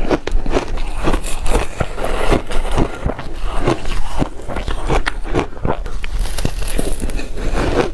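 Ice being bitten and chewed close to the microphone: a dense run of crisp crunches and crackles, several a second.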